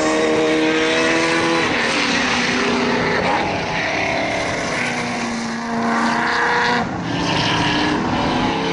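Racing muscle car engines running on the circuit, their note holding and then shifting up or down several times as the cars change speed.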